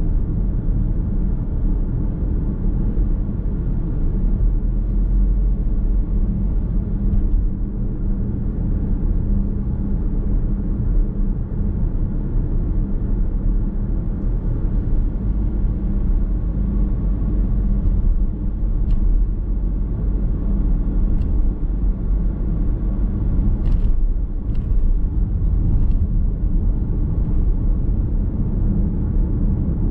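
Steady road rumble from a car driving on the open road, heard inside the cabin: tyre and engine noise, with a few light clicks in the second half.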